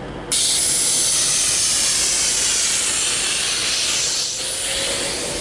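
Class 390 Pendolino electric train moving past at close range. A loud, steady rushing hiss starts suddenly about a third of a second in as the nose comes alongside, and a faint rising whine appears near the end.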